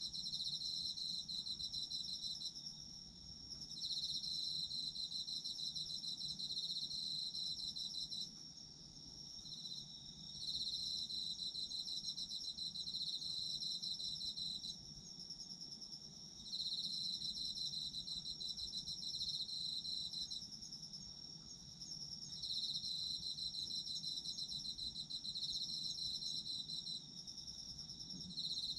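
Autumn insects, crickets, singing in chorus: one keeps up a steady high trill, while another sings a slightly lower pulsed trill in phrases of a few seconds, pausing briefly and starting again.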